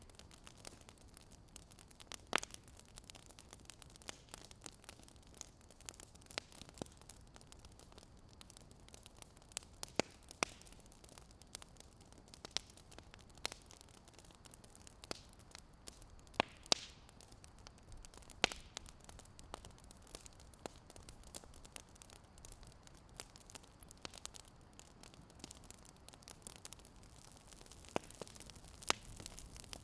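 Wood fire crackling: irregular sharp pops and snaps, a few every couple of seconds, over a steady low hiss.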